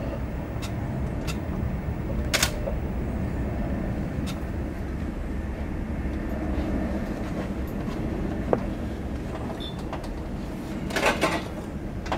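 Airbus A380's four jet engines running a steady low rumble as the airliner departs, with a short crackle about two seconds in and another near the end.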